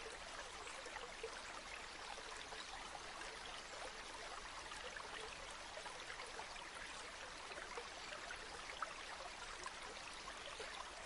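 Gently flowing river water: a steady, faint babbling wash flecked with many small splashes and drips.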